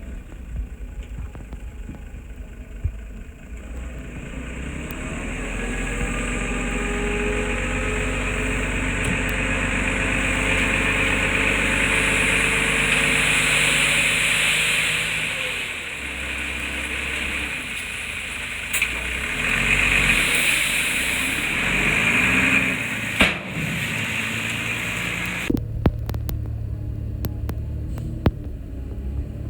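Diesel engine of heavy earthmoving equipment working: it revs up and holds under load, with a hiss and a few metallic clanks. Near the end it changes suddenly to a lower, steadier engine note.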